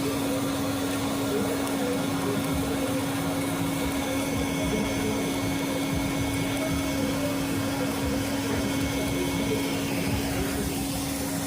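Submerged arc welding machine running a weld: a steady hum with one constant tone over an even rushing noise, with a faint high whine in the middle stretch.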